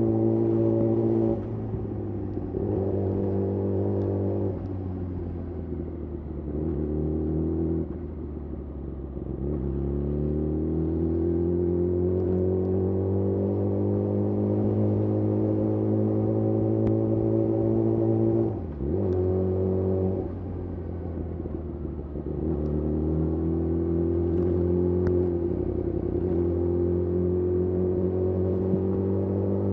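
Yamaha YZF-R6 inline-four engine through a de-catted Akrapovic slip-on exhaust, running under way. Its note climbs gradually, drops sharply a few times at gear changes or throttle-offs (clearly about two-thirds through), then climbs again.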